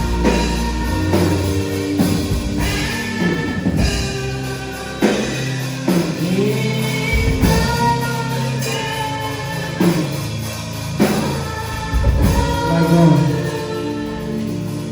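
Worship music: a band with drum kit and guitar playing, with singing over it.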